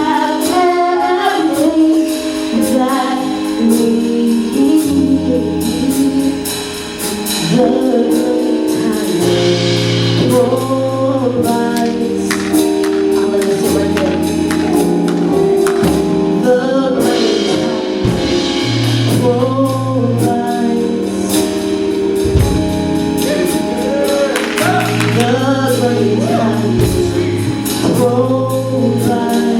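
Gospel worship song: voices singing over a band, with held bass notes and drum hits.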